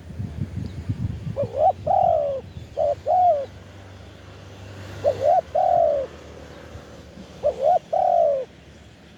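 Spotted dove cooing: four repeated phrases, each one or two short coos followed by a longer, drawn-out coo. A low rumble sits under the first few seconds.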